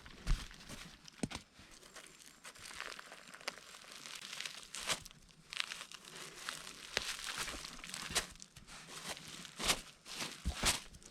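Footsteps through dry forest leaf litter and twigs: irregular rustling with sharp crackles and snaps.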